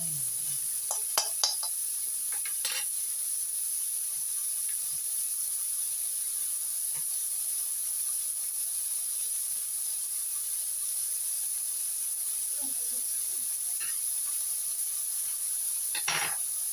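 Pork, garlic and chilies sizzling in hot oil in a wok, a steady hiss. The spatula clicks and scrapes against the pan a few times in the first three seconds and once near the end.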